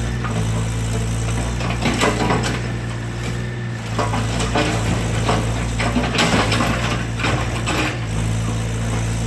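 Excavator engine running steadily while the garage structure cracks and crunches as the machine breaks it apart. A cluster of sharp cracks and snaps comes from about two to eight seconds in.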